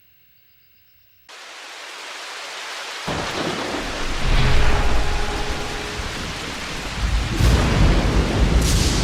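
Rain-like hiss that starts suddenly about a second in, joined about three seconds in by deep thunder rumbling that builds louder.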